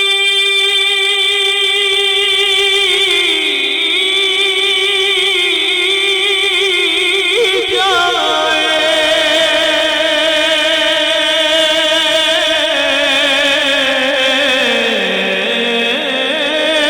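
A man's voice singing a long, wordless, melismatic passage of a naat. He holds each note with heavy vibrato, sliding down in pitch a few seconds in, rising about halfway and dropping low near the end.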